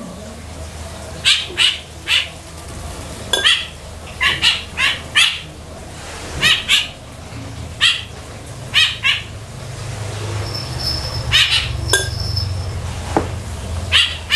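Short, sharp bird chirps, often in quick pairs, coming every second or so, over a low steady hum that grows louder in the second half.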